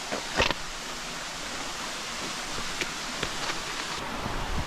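Steady rush of falling water from a waterfall, with a few sharp knocks over it, the loudest about half a second in.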